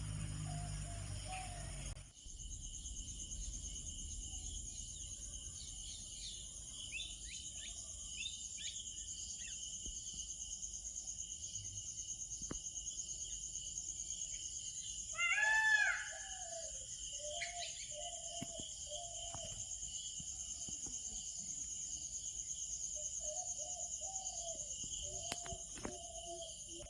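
Outdoor nature ambience: birds calling in short, arching chirps over a steady high-pitched trilling drone. The loudest call comes about halfway through.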